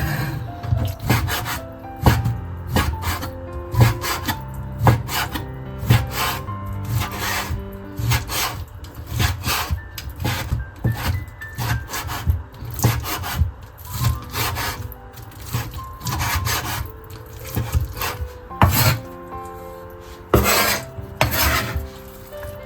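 Irregular scraping and knocking of hand work, a few strokes a second, over soft background music with held notes.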